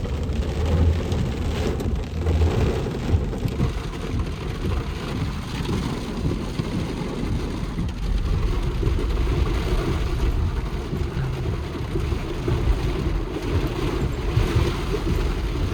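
Steady heavy rain with a constant low rumble underneath.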